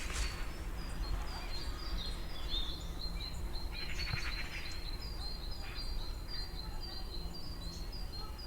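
A bird calling over and over outdoors: a steady run of short, high chirps, about two or three a second, over a low background rumble.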